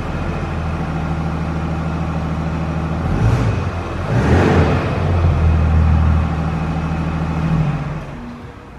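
Mercedes GLE 400d's six-cylinder diesel engine running at a steady idle. It grows louder for a few seconds in the middle, then shuts off near the end.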